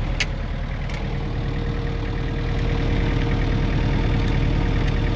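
Farm tractor engine running steadily, getting a little louder about halfway through. A couple of faint clicks near the start.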